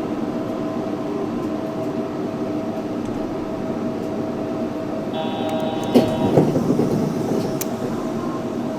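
Yurikamome 7300-series rubber-tyred automated guideway train running along its guideway, heard from inside the front car: a steady motor hum over tyre noise. About six seconds in there is a brief higher tone, then a sharp knock and a few smaller bumps.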